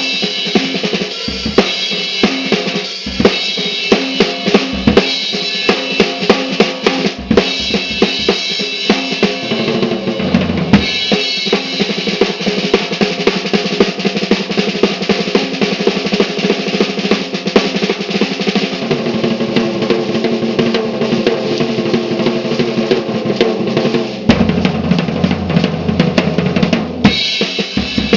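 Slingerland Sound Stage drum kit being played: kick drum, snare and cymbals in a steady groove, with a long stretch of rapid, busy fills through the middle.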